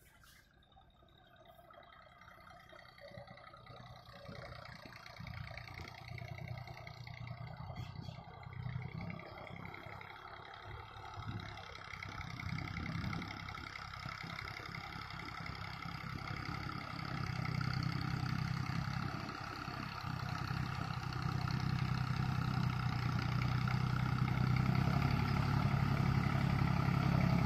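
Deutz-Fahr Agrolux 50 tractor's diesel engine running steadily in second gear and growing gradually louder as the tractor approaches.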